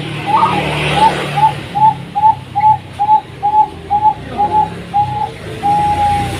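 Zebra dove (perkutut) cooing: a run of about a dozen short, evenly spaced notes at one pitch, roughly two a second, ending in one longer held note, over a steady low hum.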